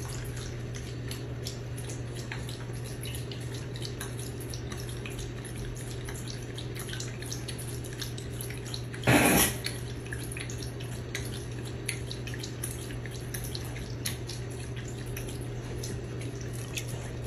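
Water dripping and trickling over a steady hum, with many small irregular ticks. A much louder burst of noise comes about nine seconds in.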